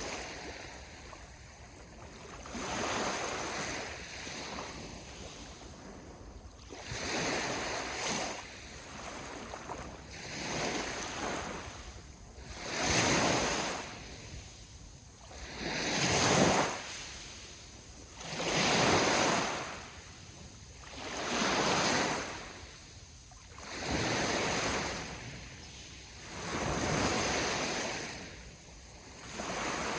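Sea waves washing onto the shore, one surge after another every two to three seconds, each swelling and then fading.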